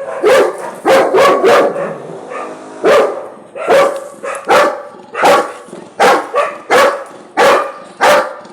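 Labrador retriever barking hard at other dogs: about a dozen loud barks, a quick run of four at first, then roughly one every three-quarters of a second.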